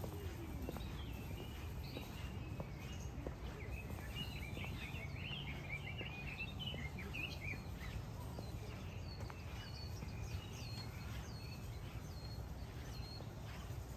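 Birds chirping: a busy twittering run through the first half, then a string of short repeated high calls in the second half, over a low steady rumble.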